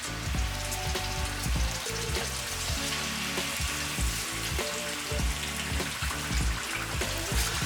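Chicken frying in hot oil in a pan, a steady sizzle, under background music with a steady beat.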